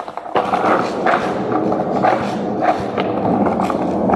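Skateboard wheels rolling over rough pavement, setting off suddenly about a third of a second in. There are scattered clicks and knocks through the roll.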